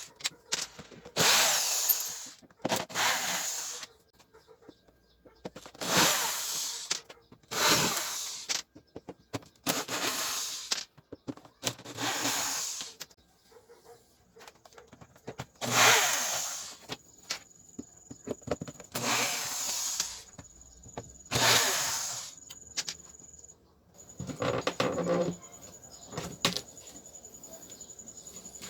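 Electric drill used as a screwdriver, running in about ten short bursts of a second or so with pauses between, backing out the screws of a speaker cabinet's rear panel.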